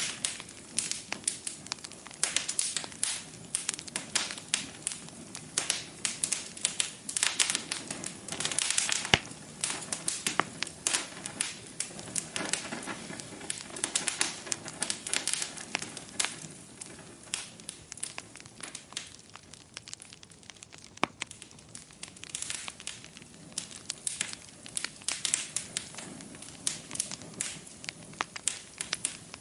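Wood fire crackling in a fireplace: a constant, irregular run of sharp pops and snaps over a soft hiss, busiest around a third of the way in.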